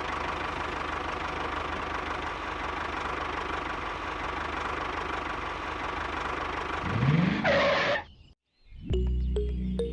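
Small engine running steadily for about eight seconds, with a brief rise in pitch near the end before it cuts off suddenly. About a second later a different sound with a low steady hum starts.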